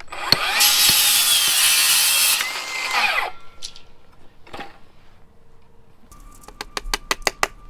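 A power tool's motor spins up, runs loud for about two and a half seconds, then winds down. A single knock follows, and near the end comes a run of quick sharp clicks.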